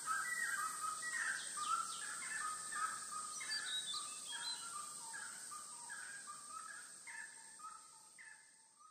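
Birds calling: many short, overlapping calls repeating over one another, fading out gradually.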